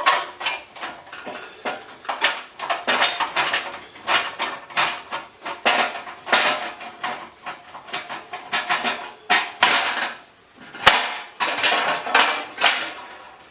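Small metal parts and tools clinking and clattering in a rapid, irregular series of knocks as scrap metal is handled and taken apart, with a short lull and one sharp knock about two thirds of the way through.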